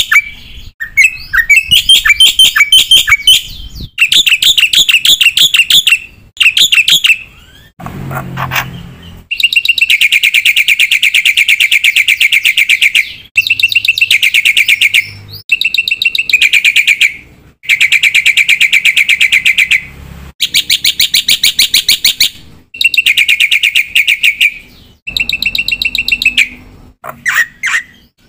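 Black-winged starling (jalak putih) singing at full volume, its song packed with mimicked fill-in phrases: phrase after phrase of rapid repeated chattering notes, each lasting one to three seconds, with short pauses between them.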